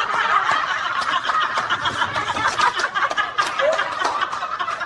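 Several people laughing hard together, a dense continuous burst of laughter.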